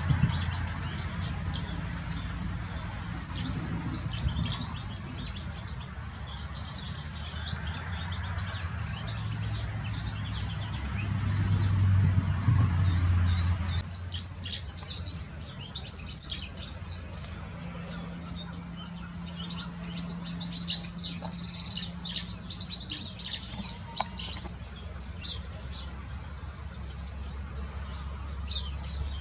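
European serin × canary hybrid (serinus mule) singing: three loud runs of fast, high-pitched notes, the first and last about five seconds long and the middle one about three, with quieter twittering between them.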